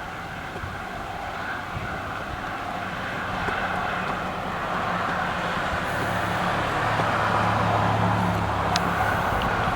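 A passing vehicle's low engine hum that builds over several seconds, over a steady rushing outdoor noise.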